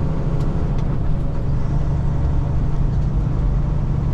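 Semi truck's diesel engine running steadily under way, a constant low drone.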